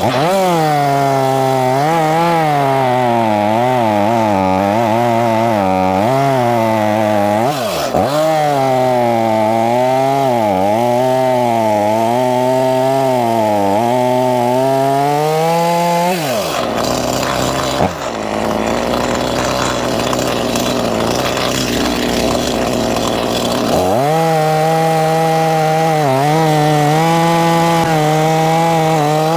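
Stihl chainsaw running at full throttle and cutting wood, its engine pitch wavering and dipping under load. For several seconds in the middle the sound turns rougher and noisier, then the engine steadies again near the end.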